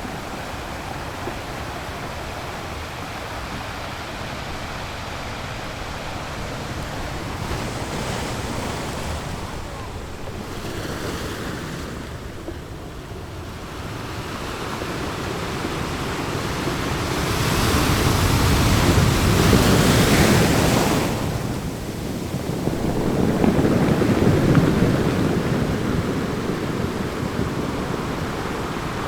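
Ocean surf: a steady rushing wash that swells into two louder breaking surges in the second half, then eases back.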